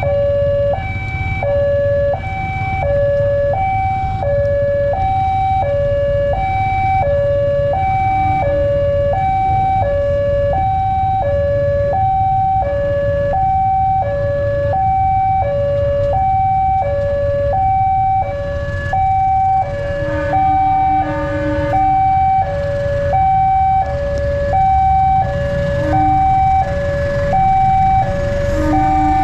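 Electronic railway level-crossing alarm sounding a continuous two-tone high–low warble, about one high–low cycle a second, over a steady low rumble. A lower tone joins briefly about twenty seconds in and again near the end.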